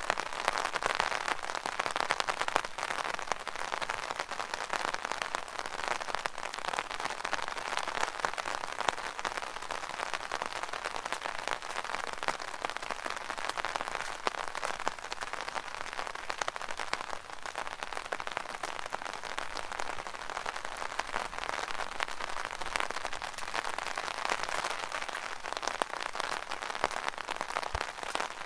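Rain falling on an umbrella canopy: a dense, steady patter of many small drop impacts.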